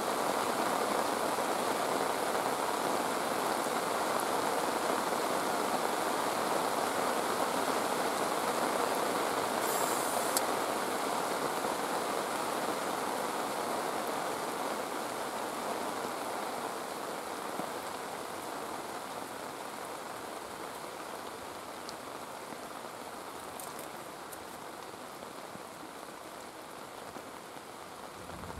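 Steady rushing noise of falling water in the forest, which fades gradually over the second half.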